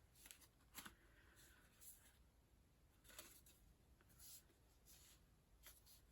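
Near silence, with a few faint taps and rustles of cardstock being handled and laid in place.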